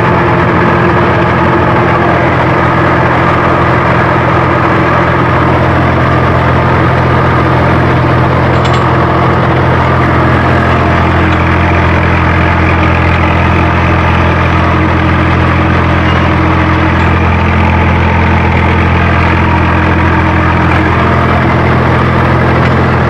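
Diesel tractor engine idling steadily, running evenly without change.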